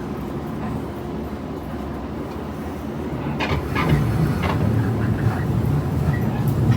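Local passenger train running on the rails: a steady low rumble that grows louder about halfway through, with a few short clicks.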